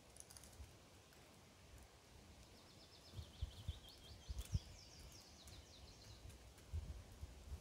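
A small bird singing a fast trill of high chirps from about two and a half seconds in, lasting about three seconds, over a quiet woodland background. A few faint low thumps sound underneath.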